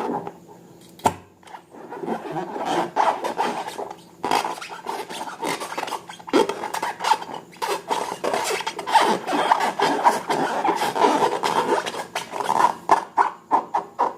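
Slime being worked by hand: a continuous run of sticky crackles and rubbing squelches, with a brief lull about a second in.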